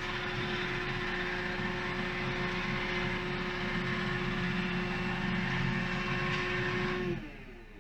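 iRobot Roomba i3+ Clean Base automatic dirt-disposal station running its suction motor to empty the robot's bin into the bag: a loud, steady rushing whoosh with a constant hum, like an aircraft taking off. It winds down, falling in pitch, about seven seconds in.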